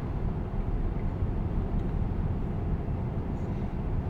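Steady low road and tyre rumble inside the cabin of a moving Tesla Cybertruck, an electric truck with no engine note.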